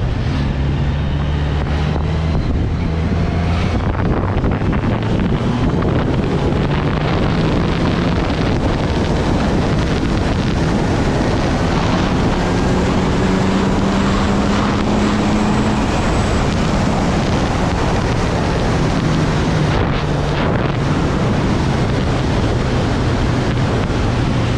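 Kawasaki Z900's inline-four engine running on the move, its note climbing in pitch for a few seconds midway and then dropping back, under heavy wind rushing over the microphone.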